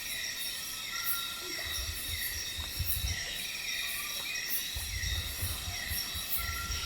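Tropical rainforest night chorus: steady high-pitched insect trilling and a fast pulsing very high buzz, with a short falling chirp repeating about twice a second and faint low rumbles underneath.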